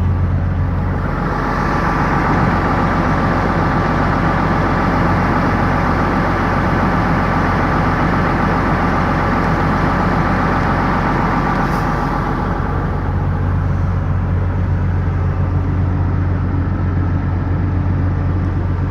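Steady low drone of a moving motor vehicle's engine, with a hissing rush of road and wind noise that swells about a second in and dies back after about twelve seconds.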